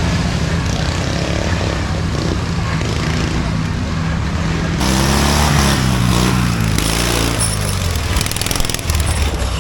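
Small engines of racing riding lawn mowers running. About five seconds in, one gets louder and revs up and down.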